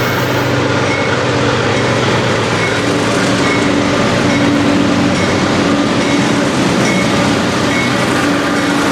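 BNSF freight train passing close by: a steady, loud rumble of wheels on the rails, with faint tones that come and go.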